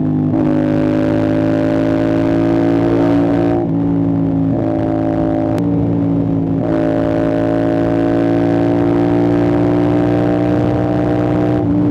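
CFMoto 450SR-S parallel-twin engine through an Austin Racing aftermarket exhaust, running under load on the move. The note is steady and climbs slowly, with a few brief breaks where the pitch shifts.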